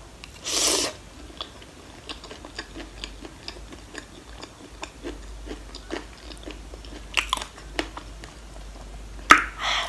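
Close-miked eating of a spoonful of spicy gilo chatpate. A short loud rush comes as the spoon goes into the mouth about half a second in. Chewing follows, with many small crunches and wet mouth clicks, and a few louder clicks near the end.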